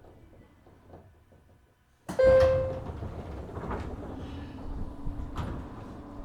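Inside a 103 series 1500 electric train standing at a station: quiet, then about two seconds in a sudden loud clank with a brief ringing tone, followed by a rushing hiss, a couple of sharp clicks and a steady low hum from the train's equipment.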